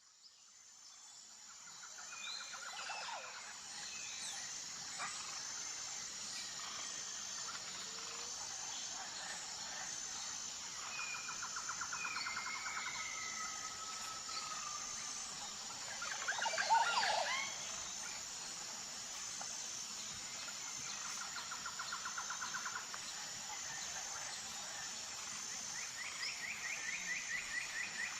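Nature ambience of insects chirring steadily at a high pitch in a fast pulsing rhythm, with birds calling over it in short rapid trills and one louder call about two-thirds of the way through. The sound fades in from silence at the very start.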